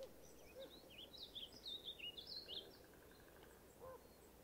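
Faint bird chirping: a quick run of high, sliding notes over quiet outdoor ambience.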